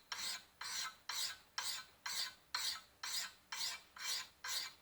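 Steel knife blade stroked along a medium whetstone wetted with spit, a steady rhythm of rasping strokes at about two a second as the edge is sharpened.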